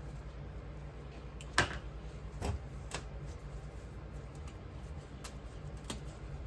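A few sharp clicks and taps, the loudest about one and a half seconds in, over a steady low hum.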